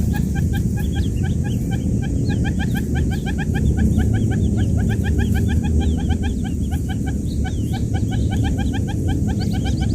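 Many newly hatched quail chicks peeping together: a dense stream of short, rising peeps, several a second and overlapping, over a steady low rumble.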